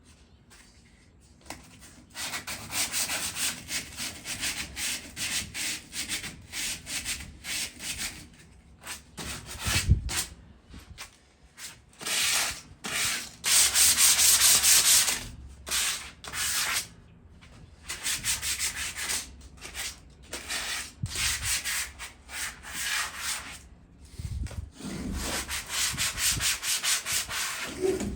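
Sanding surface rust off a metal patio chair by hand: quick back-and-forth strokes of abrasive on metal, about two a second, broken by short pauses, with a longer unbroken stretch around the middle. There is a single low thump about ten seconds in.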